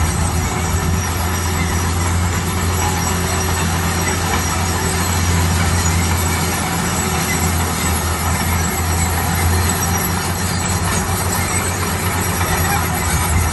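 Bulldozer's diesel engine running steadily, a constant low drone with dense mechanical noise over it.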